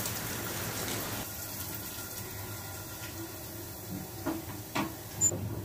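Cumin seeds and moong dal sizzling in hot oil in a pan as they roast: a steady soft hiss, with a few light clicks near the end.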